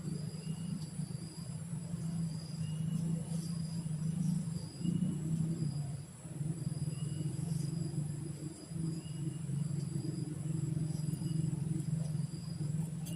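Rain-forest ambience: insects make a steady high hum, and a short chirping call repeats about once a second over a low, steady rumble.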